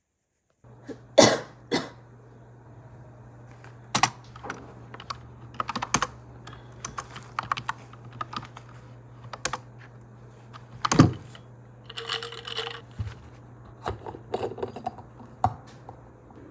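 Irregular sharp clicks and knocks, as of small hard objects being handled, over a steady low hum; the loudest knocks come about a second in and about eleven seconds in.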